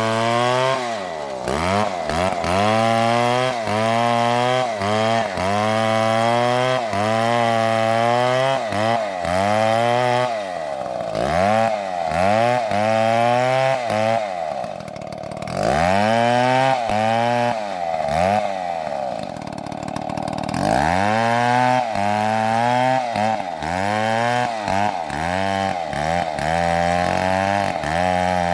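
Two-stroke chainsaw cutting wood, its engine pitch sagging under load and climbing back again and again as the chain bites. The engine holds briefly at a steady high pitch about halfway through, then drops low for a moment before cutting resumes.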